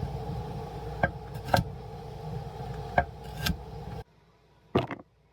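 A kitchen knife chopping baby carrots on a cutting board: a handful of sharp knocks, irregularly spaced, over a steady low hum that cuts off about four seconds in. One more knock comes after the hum stops.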